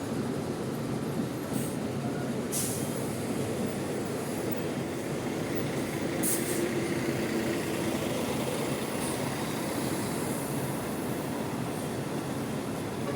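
Diesel buses running in a bus terminal, a steady engine din, with two short hisses of air about two and a half and six seconds in.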